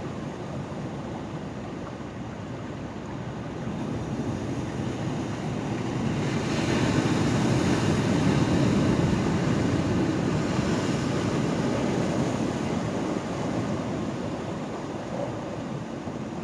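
Ocean waves washing in: a steady rush of surf that swells to its loudest a little before halfway through and then slowly eases off.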